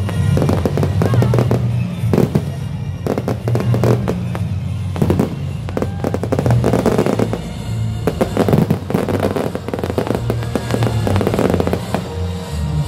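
Fireworks going off in quick succession: many sharp bangs and crackles, one after another, with music underneath.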